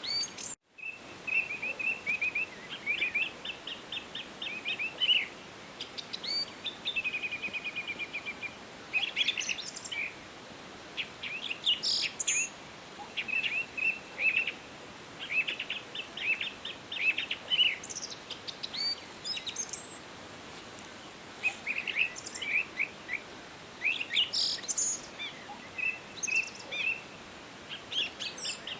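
Several songbirds singing and calling at once: quick chirps, rapid trills and runs of high notes over a faint steady hiss of ambience. About half a second in the sound cuts out completely for a moment, a break in the recording.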